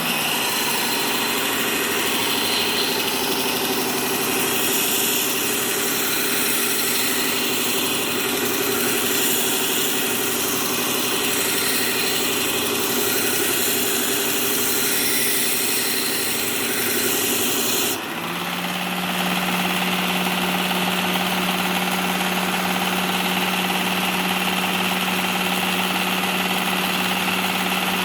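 Work Sharp Ken Onion belt sharpener running while the steel tip of a pickaxe is ground against its abrasive belt: a steady hissing grind with a high ring. About two thirds of the way in, the grinding stops suddenly as the tool is lifted off, leaving the sharpener's motor humming on its own.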